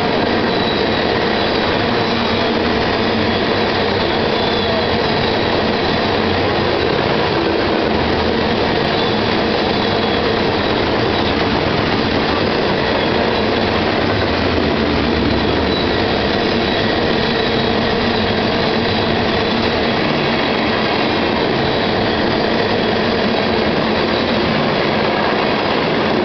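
Covered hopper cars of a grain train passing at speed: a loud, steady rumble of steel wheels on rail that does not let up.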